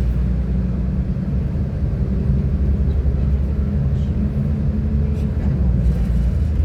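Class 172 diesel multiple unit under way, heard from inside the carriage: a steady low rumble of engine and running gear, with the engine note shifting a little in pitch and a few faint ticks.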